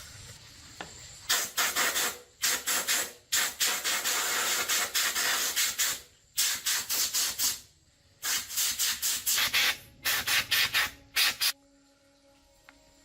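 Quick abrasive rubbing strokes, like sanding or scrubbing a part by hand, several a second. They come in runs of a few seconds with short pauses between them and stop about a second before the end.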